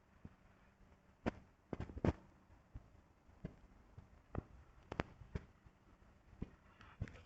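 Faint, scattered sharp clicks and knocks, about eight at irregular intervals over a few seconds.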